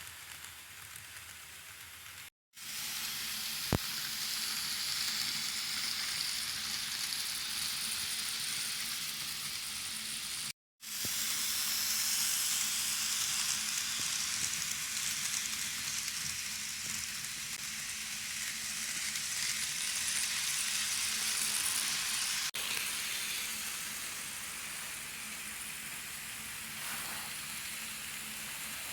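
N-gauge model train running on the track: a steady hissing rumble of small wheels on rail with a faint steady motor hum. The sound cuts out completely twice, briefly, about two and a half and ten and a half seconds in, with a single sharp click soon after the first gap.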